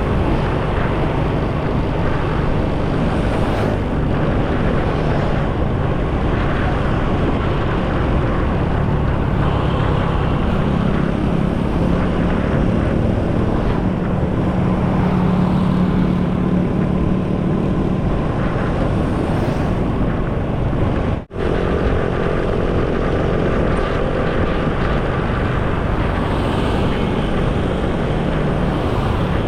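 Motorcycle running at road speed, with steady engine, wind and road noise. The sound drops out for a split second about two-thirds of the way through.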